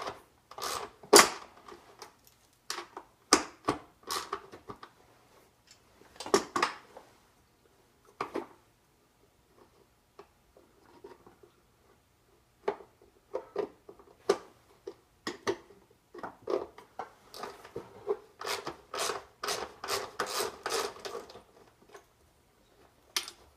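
Hand tools clicking, scraping and clanking irregularly on a two-stroke exhaust silencer as a bolt is worked loose, its inner square piece held with pliers. A denser run of clicks comes near the end.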